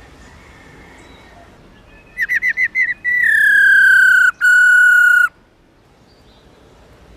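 Black-throated laughingthrush calling: a quick run of about six short rising notes, then two long clear whistles, the first sliding slightly down in pitch.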